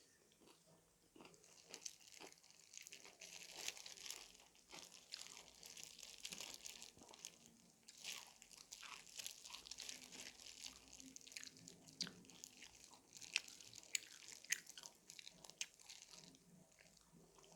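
Close-up crunchy bites and chewing of fried chicken, with many small irregular crackles of the crisp coating.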